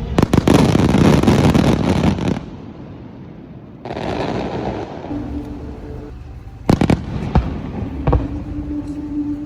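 Aerial fireworks bursting: a dense, loud spell of crackling and rumbling with sharp bangs for the first two seconds or so, then a quieter lull. About seven seconds in comes a quick cluster of sharp bangs, followed by a few single ones.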